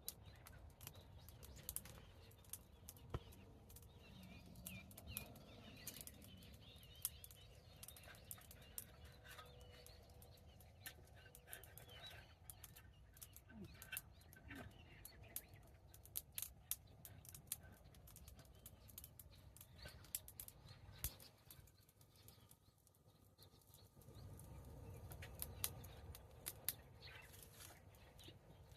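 Campfire crackling quietly, with irregular sharp pops and snaps of burning wood.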